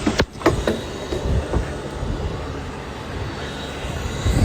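Steady mechanical rumble and hiss from an engine or machinery, with a short dropout and a few sharp clicks just after the start.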